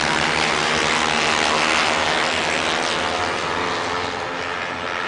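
Racing motorcycles' engines running at high revs on track, a loud, dense scream that is strongest about two seconds in and then slowly fades.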